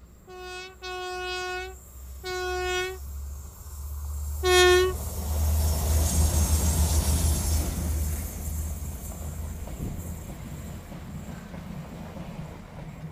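Diesel locomotive of a Talgo passenger train sounding its horn: a short toot, a longer blast, a second blast, then a short, loud toot about four and a half seconds in. The locomotives then pass close by with a deep engine rumble and wheel-on-rail noise, which fades as the coaches run past.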